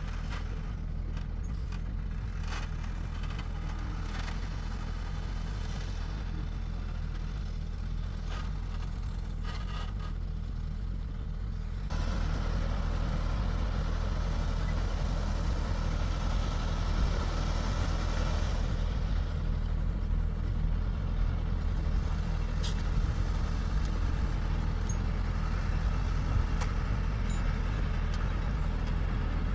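Heavy vehicle engine running steadily, with a sudden jump in loudness and added hiss-like noise about twelve seconds in.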